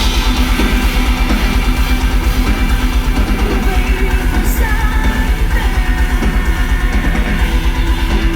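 Metal band playing live and loud: electric guitars over rapid, steady bass-drum beats.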